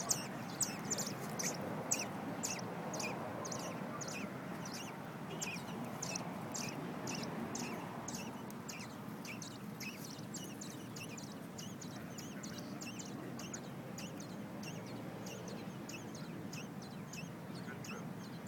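Nestling birds begging for food with a steady stream of short, high, thin cheeps, about three a second.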